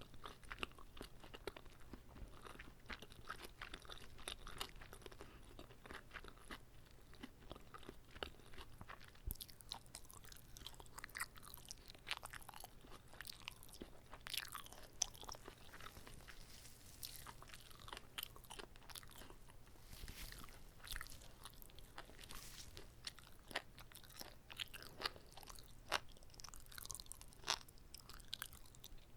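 Close-miked chewing and biting of a whole, uncut gimbap (Korean seaweed rice roll), with irregular crunches and mouth clicks.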